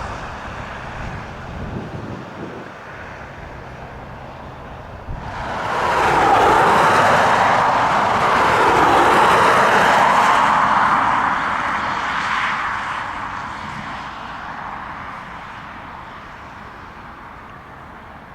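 Aircraft engines passing close by. The noise swells quickly about five seconds in, stays loud for several seconds, then slowly fades away.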